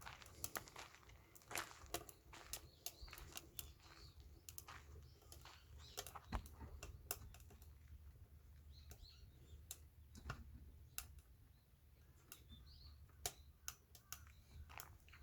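Faint, irregular light clicks and taps, with a few faint bird chirps.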